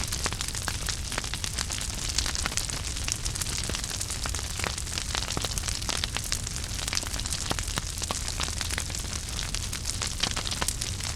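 Wood fire burning in a fireplace: a steady low rumble and hiss of flames with frequent small crackles and pops.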